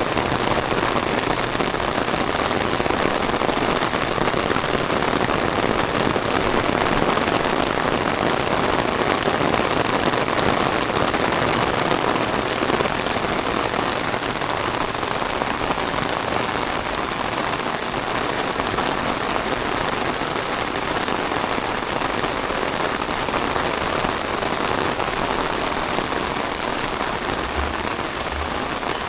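Heavy rain pouring down steadily: a dense, even hiss of rain hitting the ground and surfaces.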